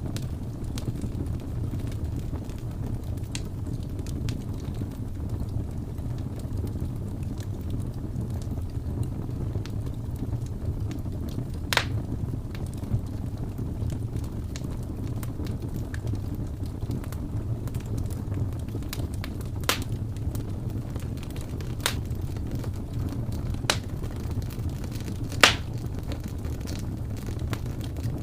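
Wood fire crackling in a fireplace: scattered small clicks and a few sharp pops, the loudest near the end, over a steady low rumble.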